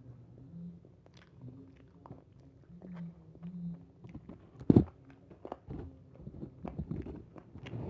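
A person chewing and biting spit-roasted chicken at close range: soft wet mouth sounds and small irregular crunches, with one sharp loud knock a little past the middle.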